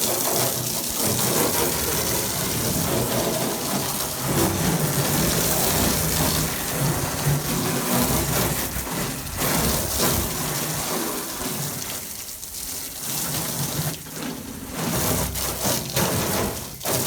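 Spray of water rinsing aluminum brightener off the side of an old aluminum boat hull, a steady hiss that rises and falls as the stream moves, with brief breaks.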